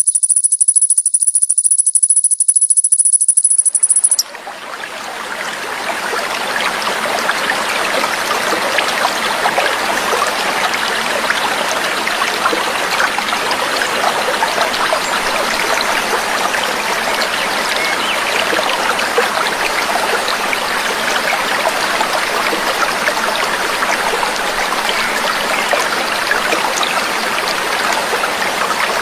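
Trickling, babbling stream water fading in about four seconds in and then running steadily. Before it, a high, shrill, rapid bird trill cuts off abruptly.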